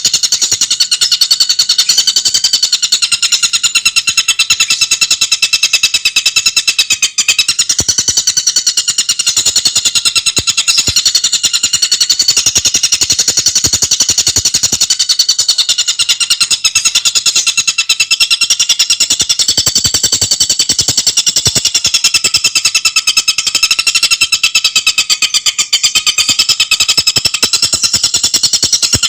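Tengkek buto bird calling in a loud, unbroken, very rapid trill of fast repeated notes, its pitch wavering slightly.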